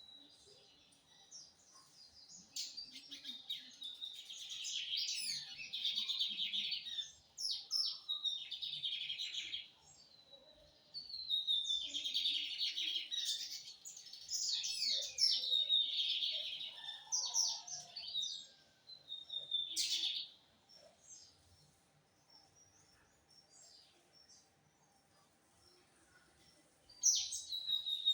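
Lined seedeater (bigodinho) singing long bursts of rapid, chirpy notes, with a short pause about ten seconds in. It falls quiet for several seconds and starts singing again near the end.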